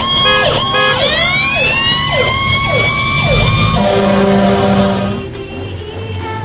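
Fire engine siren sound effect, its pitch sweeping upward over several seconds, then a steady held tone before it fades about five seconds in.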